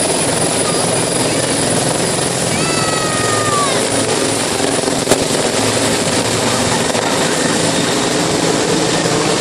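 Helicopter rotor and engine running steadily, a loud, even noise, with one sharp click about halfway through.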